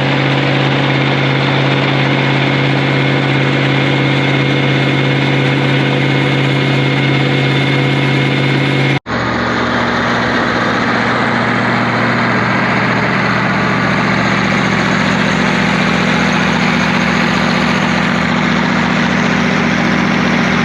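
Large farm tractor engine running steadily in two edited clips. About nine seconds in there is a sudden cut to a different, steady engine note.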